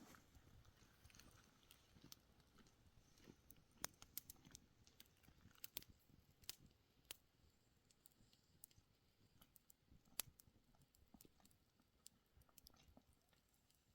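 Near silence, broken by scattered faint sharp clicks and ticks at uneven intervals.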